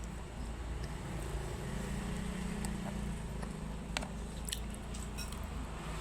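Close-up mouth sounds of someone chewing a steamed bun with mung bean filling: soft wet chewing, with a few sharp clicks and smacks about two-thirds of the way through, over a steady low hum.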